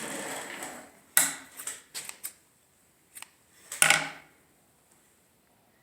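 A few scattered clicks and clatters of small hard objects being handled, the loudest about four seconds in.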